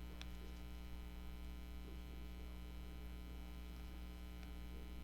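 Steady low electrical mains hum, with a couple of faint light ticks, one just after the start and one near the end.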